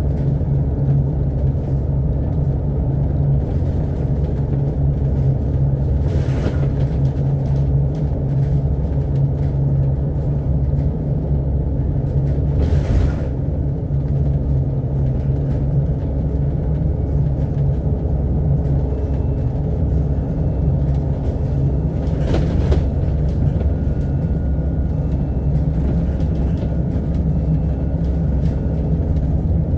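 Double-decker bus running, heard from inside: a steady low engine drone with road rumble, with a brief hissing whoosh three times, about a third of the way in, near the middle and about three-quarters of the way in.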